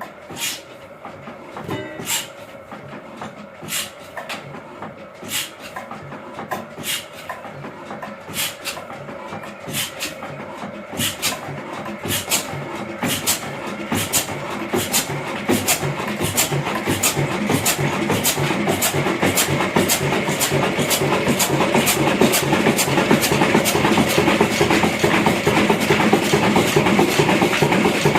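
Heavy diesel engine just started, its firing beats sharp and slow at first, about one every second and a half, then steadily quickening to a few a second and getting louder as the engine picks up speed.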